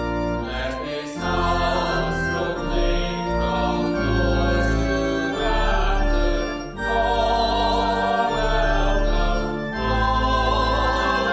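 Congregational hymn: voices singing together over sustained organ chords with a deep bass line.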